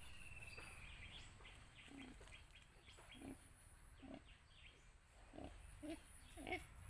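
Faint outdoor ambience with scattered short animal and bird calls, a falling whistle in the first second, and a faint steady high-pitched hum.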